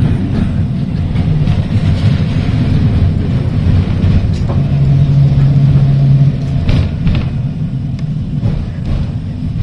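Electric heritage tram running, heard from on board: a steady low rumble, with a brief steady hum about five seconds in and a few sharp clicks shortly after.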